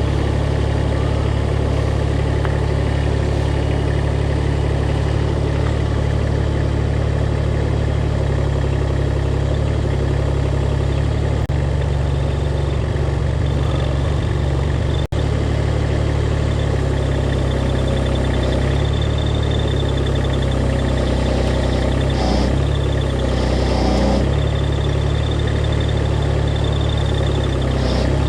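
Engine of the machine used to lift the sawmill head, running steadily at a low idle; its pitch shifts slightly a few times in the second half.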